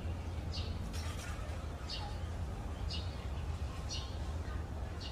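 A bird's short, high chirps, repeated about once a second, over a steady low rumble.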